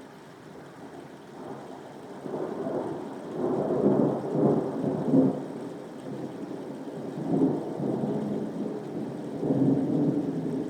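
Rolling thunder over steady soft rain. The rumble builds about two seconds in, peaks several times in the middle and swells again near the end.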